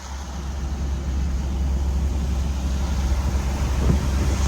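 Suzuki pickup driving on the road: a steady low rumble of engine and tyres with road noise over it.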